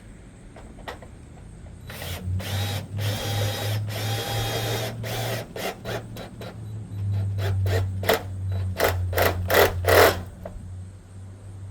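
Power drill running in two spells while working a gutter screw into the fascia, the second spell broken into several short bursts near the end.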